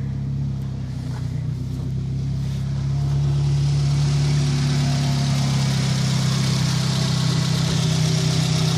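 2009 Scion tC's 2.4-litre four-cylinder engine running steadily at idle, freshly started and running well now that its ice-blocked muffler no longer stops it. It gets slightly louder about three seconds in.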